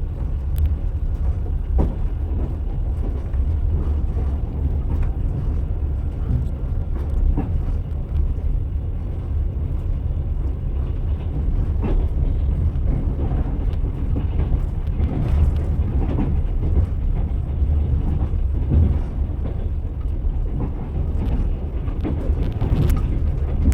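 Train wheels running on the rails: a steady low rumble with a knock every few seconds as the wheels cross rail joints.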